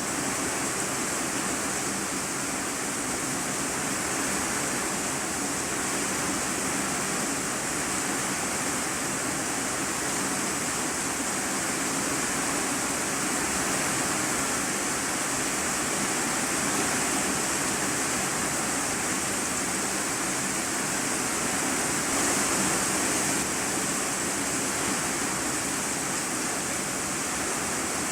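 Steady heavy rain drumming on a corrugated iron-sheet roof, heard from the room below as a dense, even hiss.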